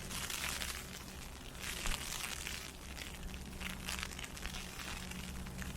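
Fine, irregular crackling patter on an umbrella overhead, like ice pellets hitting it, over a steady low rumble.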